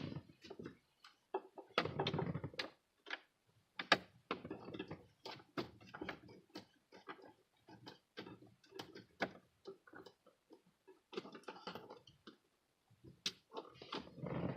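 Irregular sharp clicks, taps and knocks, with some brief rustling, from plastic interior trim panels and small hand tools being handled while a car's dashboard is taken apart.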